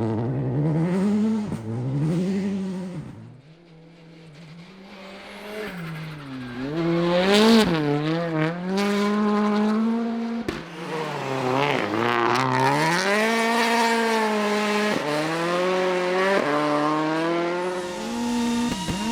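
Rally car engine revving hard, its pitch rising and falling repeatedly with throttle lifts and gear changes. It fades about three seconds in, then comes back loud a few seconds later.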